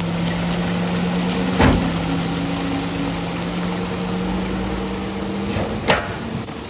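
Garbage truck's hydraulic packer running a crushing cycle: a steady mechanical hum that stops about five and a half seconds in. Two loud bangs come through it, the louder one under two seconds in and another near the end.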